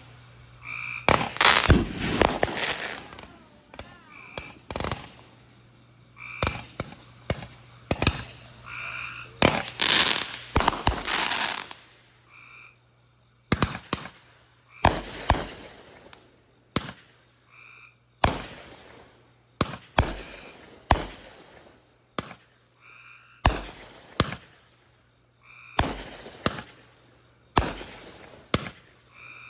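Backyard fireworks going off: a run of sharp bangs with echoing tails, with thicker volleys of crackling bangs about a second in and again around ten seconds in.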